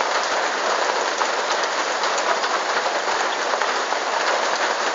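Steady rain falling on wet ground and puddles.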